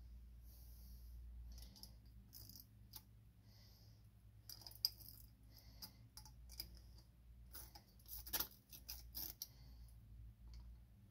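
Faint, scattered clicks and light metallic taps of tools and fuel-pump fittings being handled, loudest about five seconds in and again around eight seconds.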